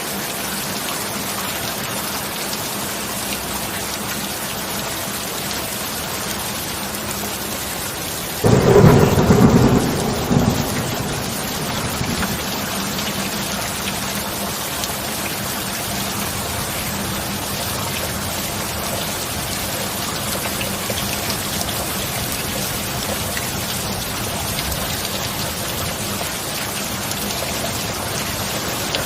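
Heavy rain falling steadily, with a sudden loud thunder crack about eight seconds in that rumbles off over the next few seconds.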